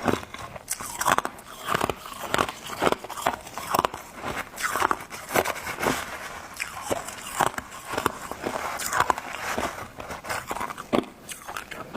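A person biting and chewing crunchy white freezer frost ice: an irregular run of sharp crunches, about two or three a second.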